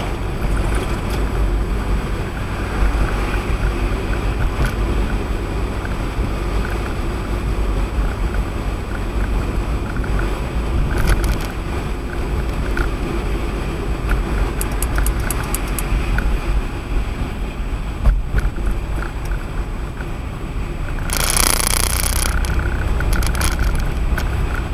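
Steady low rumble of tyre and road noise from Firestone Firehawk Sport 01 tyres, heard inside a moving car. A brief loud hiss comes about three-quarters of the way through.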